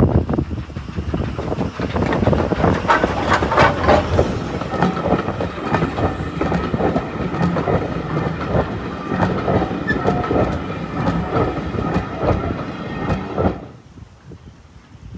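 Heritage railway train passing close by, its wheels clicking over the rail joints with faint ringing tones from the wheels. The sound cuts off sharply near the end.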